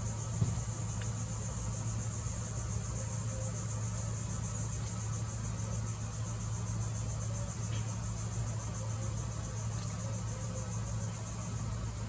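Steady high insect chorus of crickets or katydids, a fast even trilling that doesn't let up, over a low steady hum.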